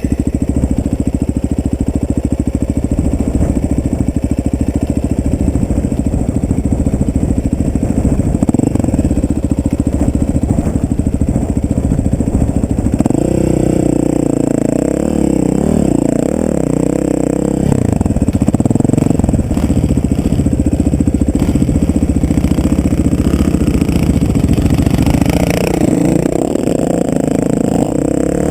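Off-road vehicle engine running under way on a dirt trail, its pitch rising and falling as the throttle is worked, with some rattling from the vehicle.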